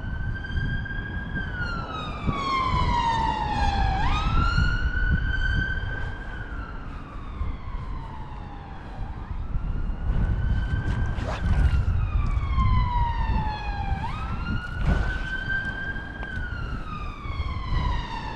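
An emergency vehicle siren wailing, each cycle rising quickly and then falling slowly, repeating about every five seconds. Wind rumbles on the microphone underneath.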